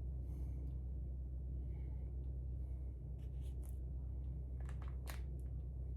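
A steady low hum, with a few faint short scrapes and taps a little past halfway, the clearest near the end.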